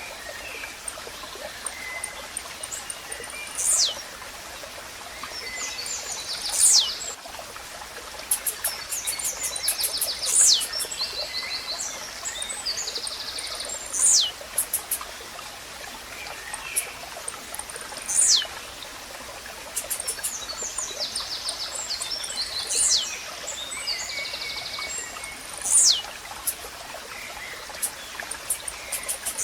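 Blue-black grassquit (tiziu) repeating its short, sharp song, each note sweeping down from very high pitch, about every three to four seconds, over a steady running stream. Other birds or insects chirp in fast pulsed trains between the songs.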